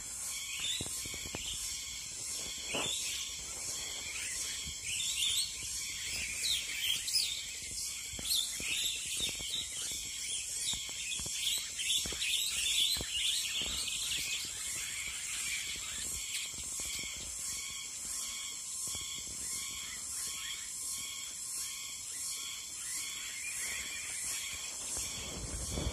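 Large flock of small birds chirping together in a dense, overlapping chorus, busiest in the first half, over a steady high buzz that pulses about twice a second.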